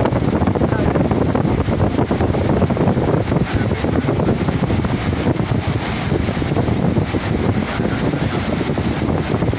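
Steady, loud rushing noise of wind buffeting the microphone mixed with rushing water.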